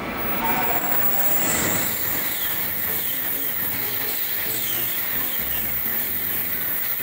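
Shinkansen bullet train passing close by at speed, a steady rushing noise of the train along the rails.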